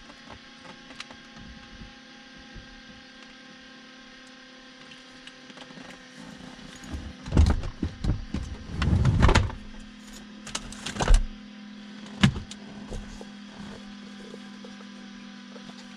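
Knocks, rattles and thumps of someone moving about in and climbing out of a parked Cessna's cabin, in bursts about seven, nine, eleven and twelve seconds in, over a steady hum of several even tones.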